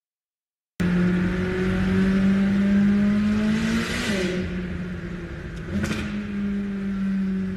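Car engine running at steady revs, heard from inside the cabin. It starts abruptly about a second in, the revs drop briefly near the middle and climb back, with a couple of short sharp cracks.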